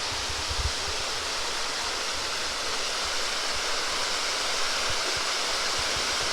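Waterfall pouring into a pool, a steady rushing of water, with a few low bumps on the microphone in the first second.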